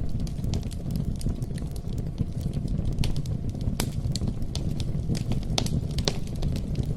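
Wood campfire burning: a steady low rumble of flames under irregular crackles and pops, with a few louder snaps in the second half.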